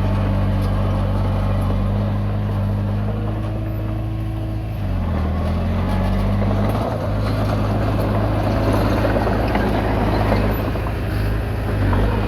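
Komatsu D20P bulldozer's diesel engine running steadily, its pitch dipping briefly about five seconds in, then picking back up. The sound grows noisier and rougher in the second half.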